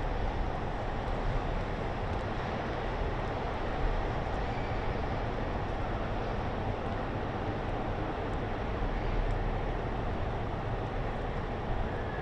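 Steady outdoor city ambience: a continuous low rumble of distant traffic with no distinct events, and a few faint short high chirps.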